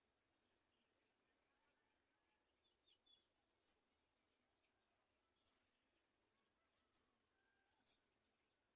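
Short, thin, very high bird chirps, about eight of them at irregular intervals, the loudest a little past the middle, over a faint background hiss.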